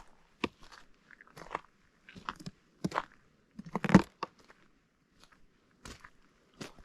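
Footsteps crunching on partially melted snow, one crunchy step about every half second to a second. The loudest crunch comes about four seconds in, followed by a brief softer stretch.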